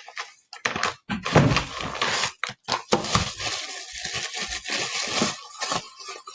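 Rummaging for magnets: a run of irregular knocks, clacks and rustling as small hard objects are shifted and handled.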